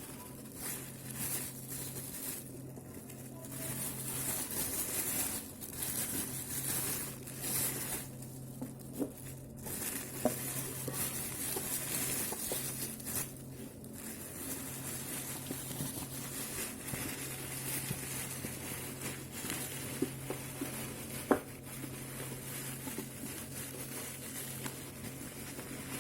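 Handling noises: irregular rustling and crinkling with a few sharp clicks, over a steady low hum.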